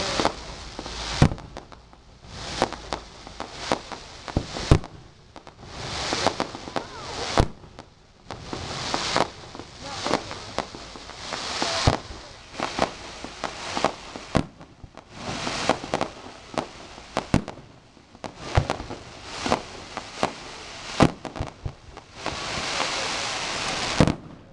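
Aerial fireworks going off in quick succession: sharp booms every second or so, each followed by crackling and sizzling from the bursting shells.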